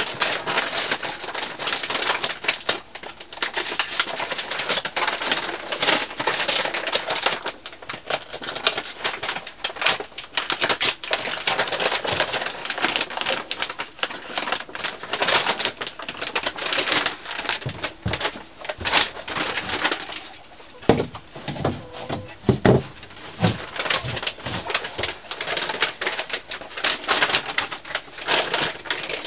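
Dense, continuous rustling and crackling as a corner of the coop is cleared by hand, with a few dull knocks about three-quarters of the way through.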